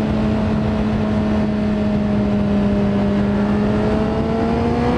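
Honda CBR600RR's inline-four engine running at steady revs under way, its pitch sagging slightly and then climbing near the end, with wind noise on the microphone.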